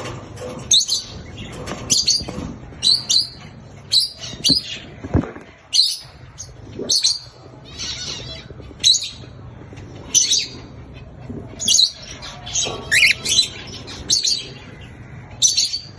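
Cockatiel giving short, harsh chirping calls over and over, roughly one a second.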